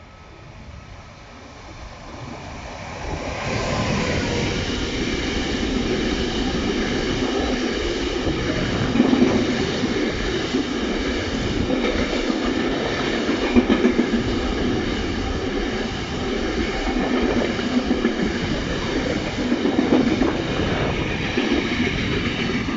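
Electric freight train approaching and passing close by: the sound grows over the first few seconds as the E494 locomotive arrives, then the container wagons run past with a steady rumble of wheels on rail and occasional clacks.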